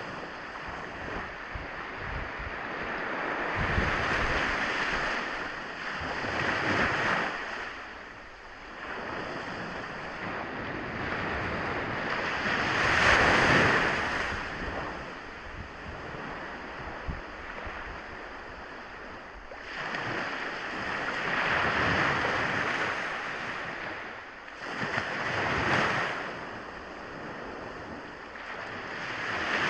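Sea waves breaking and washing up on a shore, the rush of surf swelling and ebbing in about six surges, the loudest about halfway through.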